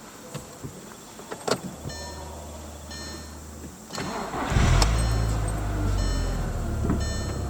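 Audi TT 8N's 1.8T AUQ turbocharged four-cylinder engine starting: a few clicks and a low steady hum, then a short crank and the engine catches about four and a half seconds in, flares up and settles into a steady idle.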